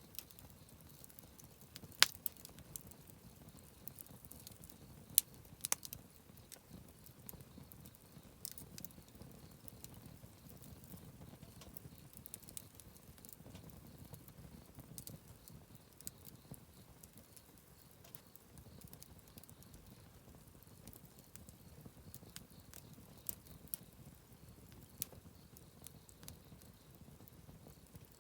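Wood campfire crackling: scattered sharp pops and snaps over a low, steady sound of burning, with the loudest pops about two and five seconds in.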